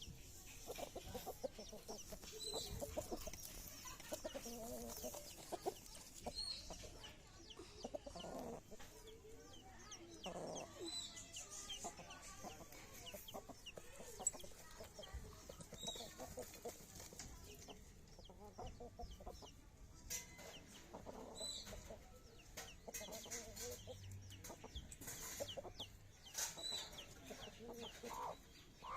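Chickens clucking on and off, with short high chirps every few seconds.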